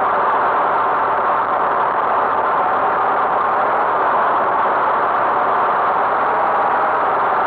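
Vehicle engine running steadily, a constant drone without change in speed.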